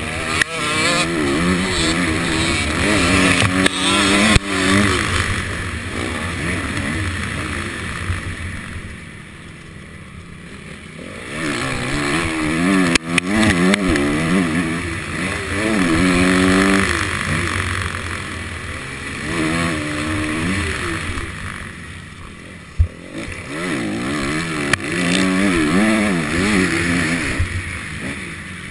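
Honda CRF250 dirt bike's single-cylinder four-stroke engine revving hard and shifting up and down through the gears, with wind rushing past a helmet-mounted camera. Twice the engine drops back off the throttle for a couple of seconds before pulling hard again, and a sharp knock comes near the end.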